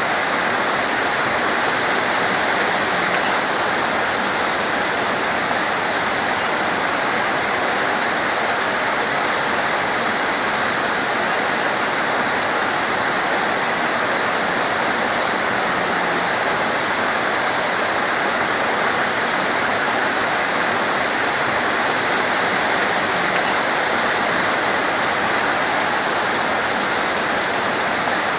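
Torrential rain pouring steadily as a dense, even hiss, with one brief sharp click about halfway through.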